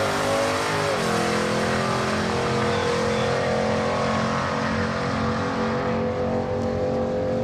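Holden Commodore drag car at full throttle on a quarter-mile pass, accelerating away. The engine pitch drops with a gear change about a second in, then climbs slowly as the car pulls away.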